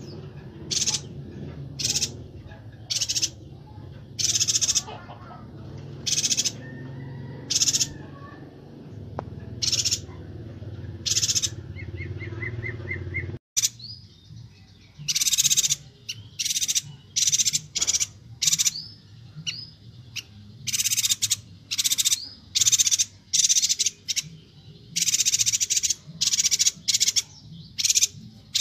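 Yuhina calling: short, high chirping notes repeated about once a second, with a brief rapid trill about twelve seconds in. Near the middle the recording cuts, and after it the chirps come faster and more densely; a low rumble sits under the first half.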